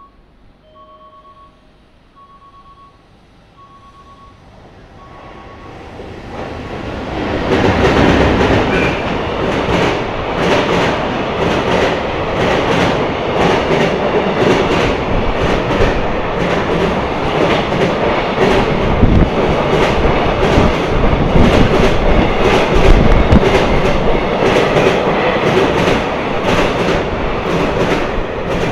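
An EH500 electric locomotive and its container freight train pass through the station at speed. The sound swells from about four seconds in, then holds as a loud, steady rolling with regular clickety-clack of wheels over the rail joints. A faint repeating beep sounds at the start, before the train is loud.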